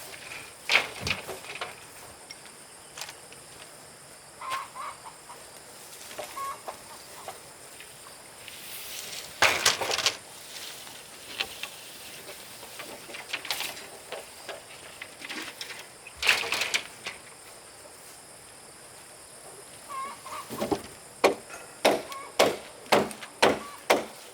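Chickens clucking now and then, mixed with sharp knocks and bangs, the loudest about ten seconds in and at about sixteen seconds, and a run of about two knocks a second near the end.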